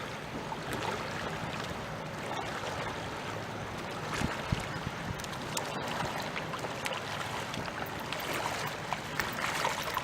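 Kayak paddle dipping and pulling through the water, small splashes over a steady wash of moving water.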